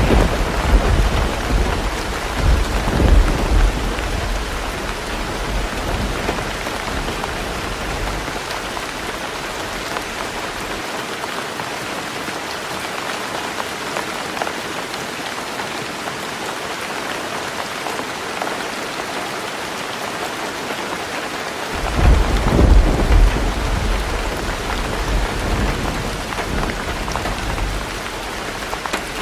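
Heavy rain falling steadily on a roof, with thunder rumbling deep and low at the start, dying away after several seconds, and rolling in again about two-thirds of the way through.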